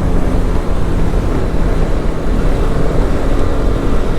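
TVS Apache RTR 310's single-cylinder engine running steadily.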